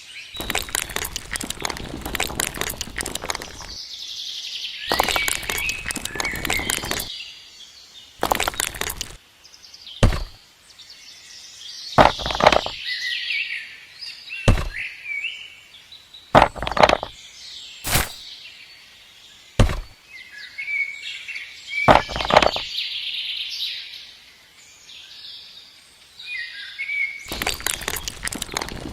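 Small birds chirping, over a series of sharp knocks and a few longer stretches of rough, scraping-like noise in the first ten seconds.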